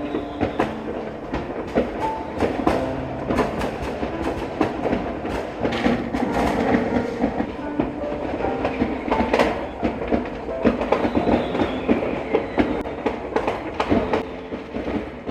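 New Year's Eve fireworks going off: a dense, continuous string of sharp bangs and crackles, many overlapping each second.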